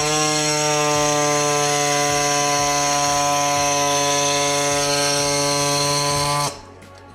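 Electric power tool motor spinning up, running at a steady high speed with a constant whine, then cutting off about six and a half seconds in.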